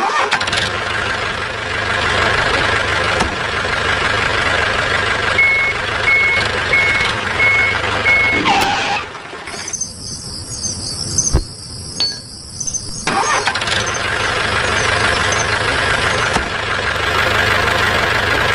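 Steady engine running noise, with five short even beeps about halfway through. For a few seconds in the second half the engine sound drops away and a thinner, hissier sound takes its place, then the engine noise comes back.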